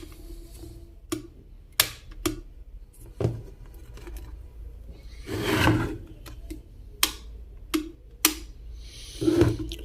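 Scattered sharp clicks and light knocks from an electric kettle's plastic body being handled. There are two short rubbing noises, about five and a half seconds in and near the end.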